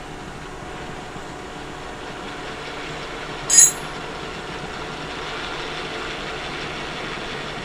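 Kearney & Trecker 2HL horizontal mill running steadily, its power feed moving the table. There is a brief, sharp high-pitched click about three and a half seconds in.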